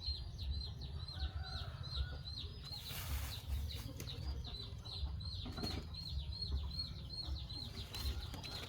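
A steady run of short, high chirps, about four a second, from a calling night animal. Under it is low, uneven rumbling from wind or handling on the microphone.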